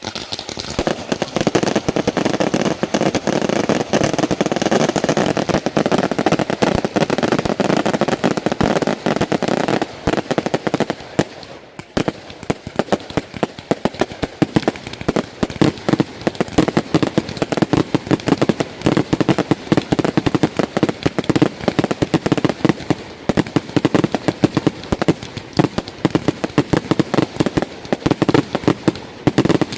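Fireworks going off in a fast, continuous stream of bangs and crackles, easing briefly about twelve seconds in, then building again.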